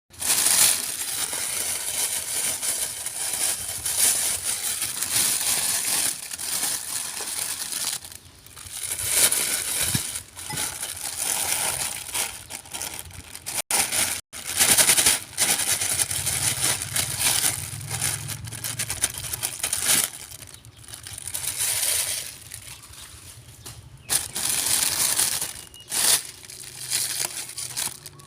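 A pet chewing crunchy food close to the microphone: continuous crackly crunching in stretches of a few seconds, with short pauses between.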